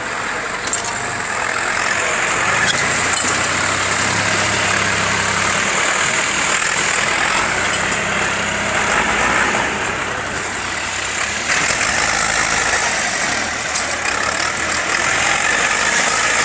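IMT tractor diesel engine running steadily at work while plowing.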